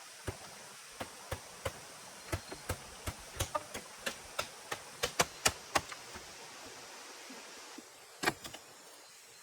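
A quick run of sharp knocks, about three a second and loudest toward the end, stopping about six seconds in, then one more loud knock about eight seconds in, over a steady hiss of rain or running water.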